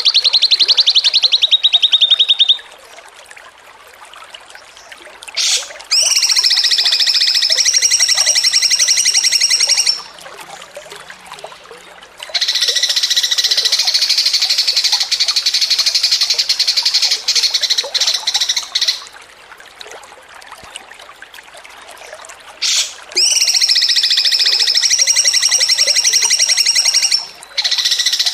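A songbird singing in long bouts of a fast, rattling trill of tiny repeated notes, the continuous chattering used as training song for contest birds. There are four main runs of a few seconds each, separated by short pauses.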